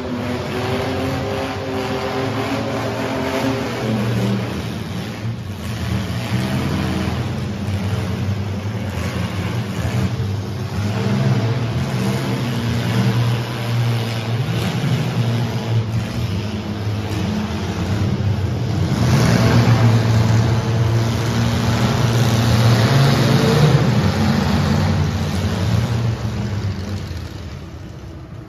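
Several compact demolition-derby cars' engines revving hard, rising and falling in pitch, loudest about two-thirds of the way through.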